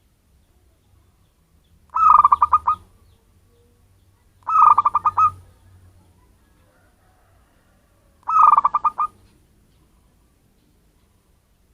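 Local wild zebra dove (perkutut) cooing: three short phrases, each a rapid run of staccato notes lasting under a second, spaced a few seconds apart. This is the lure call used to attract doves.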